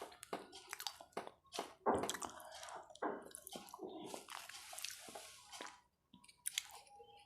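Close-up eating sounds: wet chewing and biting, with irregular smacks and small crunches several times a second and a short pause near the end.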